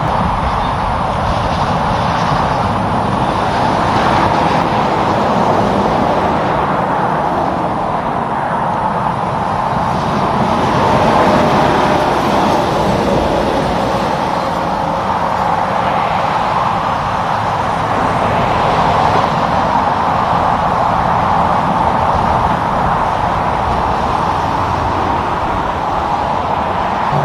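Highway traffic with heavy trucks and cars going by: a steady roar of tyres and engines that swells a few times as vehicles pass close.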